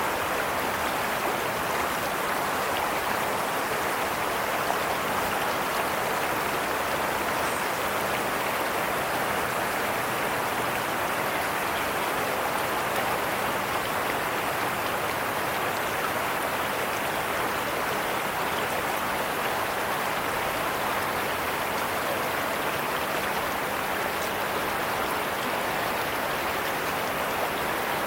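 Steady rushing water noise with a faint low steady hum beneath it.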